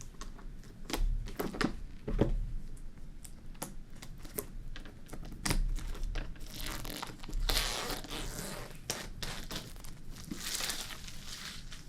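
A product box's packaging being opened by hand: crinkling and tearing of the wrapping, with scattered clicks and taps, and two longer stretches of tearing and rustling in the second half.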